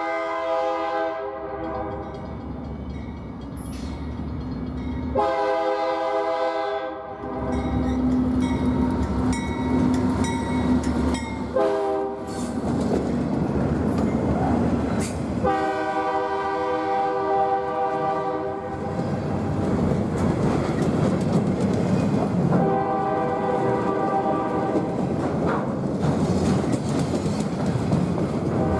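Diesel locomotive's multi-note horn sounding the grade-crossing signal: two long blasts, a short one, then further long blasts. Under the horn the train's engines and wheels rumble louder from about a third of the way in as it passes.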